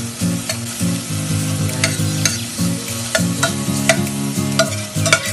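Sliced chicken sizzling as it browns in oil in a stainless steel pot, with a spatula stirring and scraping against the pot in quick, sharp clicks. Low steady tones shift in pitch underneath, like a tune.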